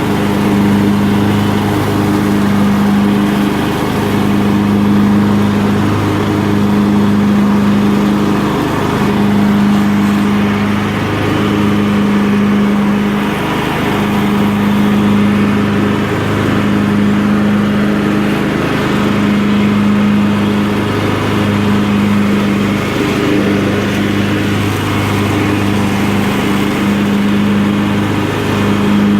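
Craftsman LT1000 lawn tractor running steadily under load while mowing and chopping leaves with its bagging system, a constant engine drone that swells slightly about every two seconds.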